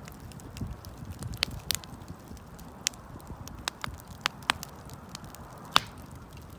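Wood fire crackling, with sharp, irregular pops over a low rumble. One pop near the end is louder than the rest.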